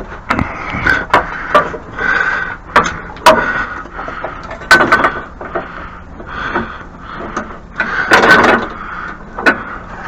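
Irregular knocks, clicks and scrapes of objects being picked up and handled, with louder bangs about a third and halfway through and a longer scrape near the end.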